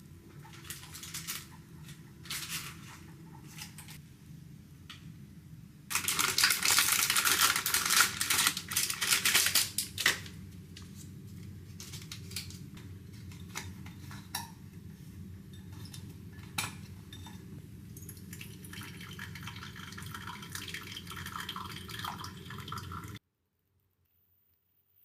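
Kitchen sounds: dishes and cutlery clinking and knocking, with a tap running loudly for about four seconds partway through. The sound cuts off suddenly near the end.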